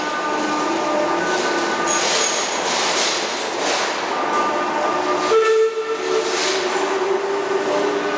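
Manchester Metrolink tram running. Several steady tones sound over a pulsing hiss, and a stronger, higher tone takes over about five seconds in.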